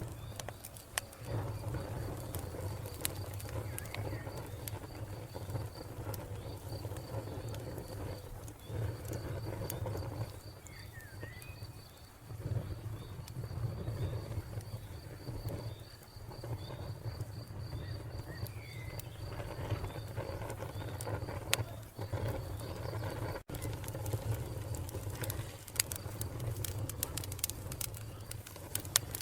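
Wood fire crackling with scattered sharp pops over a low rumble. A cricket keeps up a steady, rapidly pulsing high chirp until a few seconds before the end, and a bird gives a couple of brief chirps.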